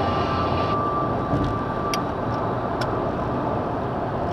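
A steady high-pitched tone from a phone's meditation app, heard over the road noise inside a moving car's cabin. The tone cuts off about two seconds in, and two brief clicks follow.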